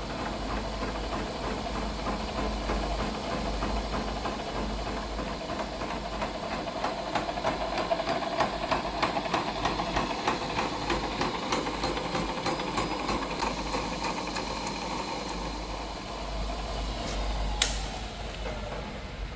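Adjustable boring head with an ECGT insert taking a roughing cut in the steel eye bore, the metal-cutting noise carrying an even, rapid ticking that keeps time with the spindle. A sharp click near the end, after which the cutting noise drops away.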